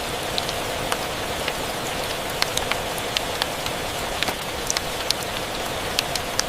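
Steady rain with a fireplace crackling: an even rain hiss with scattered, irregular sharp ticks and pops.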